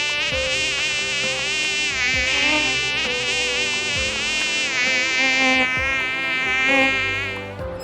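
Loud, continuous buzzing of a flying insect, wavering in pitch, that stops shortly before the end, with soft sustained notes underneath.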